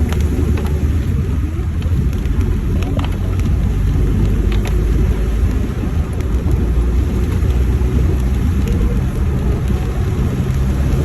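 A road vehicle driving: a steady low rumble of engine and road noise.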